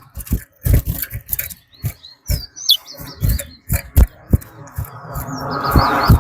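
Towa-towa (chestnut-bellied seed finch) giving short high chirps and quick gliding whistled notes, twice, among many short sharp clicks. A rising wash of noise builds up near the end.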